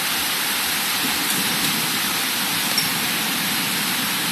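Heavy rain pouring down steadily in a thunderstorm: an even, unbroken rushing noise.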